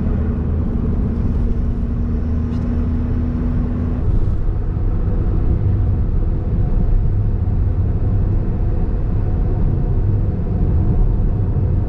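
Honda S660's small turbocharged three-cylinder engine running on the move, with steady road and tyre rumble. A droning note in the engine sound holds, then drops away about four seconds in.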